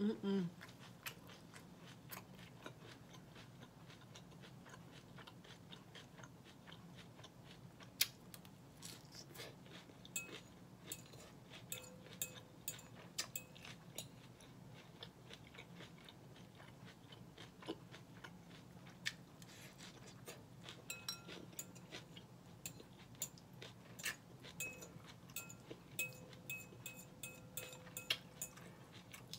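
Close-miked chewing and crunching of salmon Caesar salad with lettuce and red onion, many small crisp crunches. A metal fork clinks against the glass salad bowl now and then, a few strikes ringing on briefly about halfway through and again near the end.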